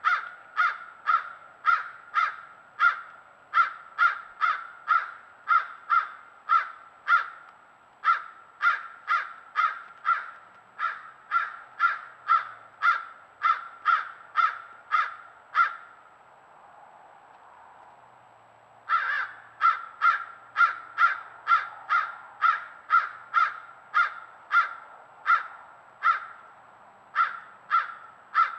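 A bird calling in a long, even series of short, loud notes, about two a second, breaking off for about three seconds past the middle and then starting again.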